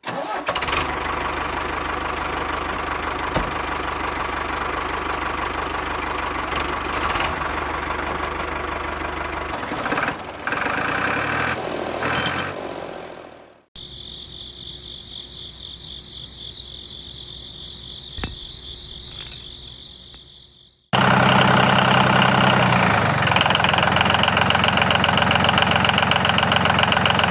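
A small motor running steadily in three stretches that change abruptly, about halfway and about three quarters of the way through; the last stretch is the loudest and buzziest.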